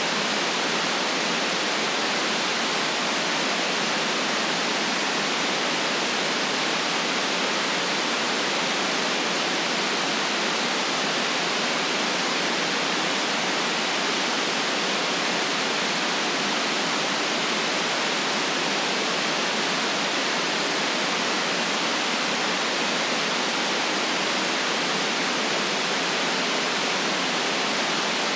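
Synthetic white noise: a steady, unchanging hiss with no low bass and a cut-off above the upper treble.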